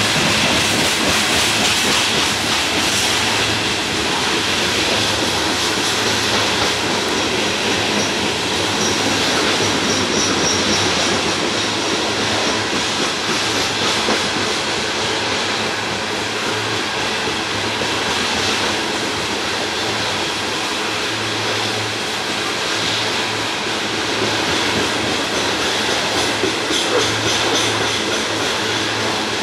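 A long loaded coal train's cars rolling past, their steel wheels running on the rails in a steady, continuous rumble.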